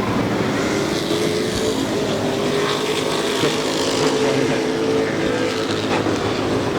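Race trucks' engines running at speed on a short oval track as the pack goes around. The engine notes blend together and shift gently in pitch.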